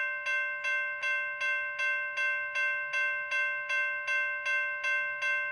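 Railroad grade crossing bell ringing steadily, about three strikes a second, each strike ringing on into the next, warning as the crossing stays active around the passing train.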